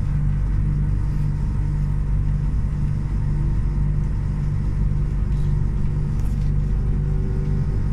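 Passenger train running, heard from inside the carriage: a steady low rumble with a constant hum, and a faint whine that rises slightly near the end.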